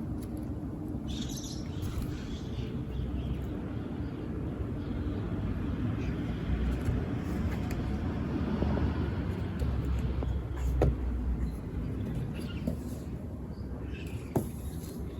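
A vehicle passing, its low rumble swelling over several seconds and fading again, with a few short bird chirps near the start and near the end.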